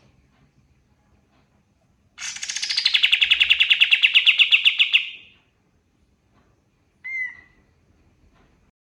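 Kapas tembak songbird singing: a loud, fast trill of about three seconds, many notes a second, starting high and dropping to a steady lower pitch, then one short whistled note a couple of seconds later.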